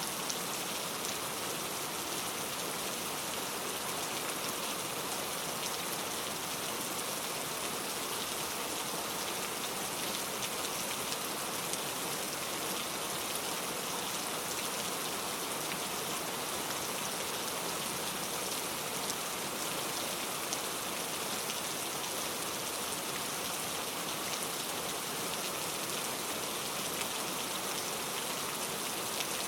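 Steady rain falling, an even hiss with a few soft drop ticks now and then; no thunder.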